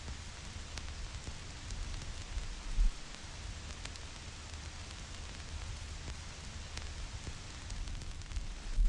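Vinyl record surface noise: a steady hiss with scattered crackles and pops from the stylus, over a low rumble. Two louder low thumps come about three seconds in and near the end.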